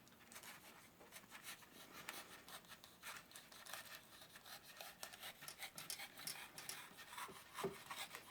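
Faint, irregular scratching and squeaking of a sharp knife blade cutting and scraping through a styrofoam tray.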